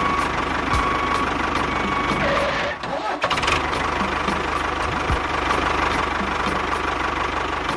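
Engine running steadily with an even low chug, like a tractor engine, the same pattern repeating every few seconds as if looped; it dips briefly about three seconds in.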